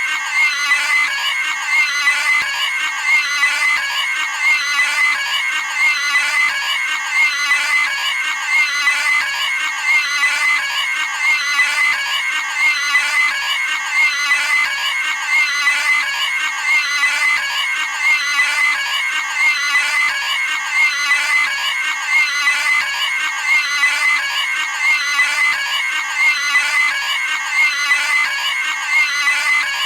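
Pig screaming sound effect: a high-pitched squeal looped over and over, about once every second and a half.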